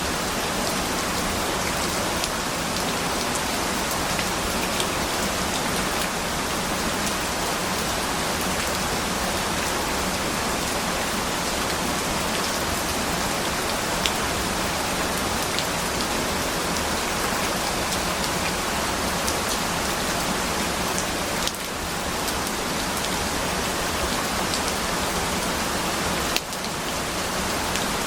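Steady rain falling: a dense, even hiss of rain on surfaces with scattered drop ticks. The level dips briefly twice in the last third.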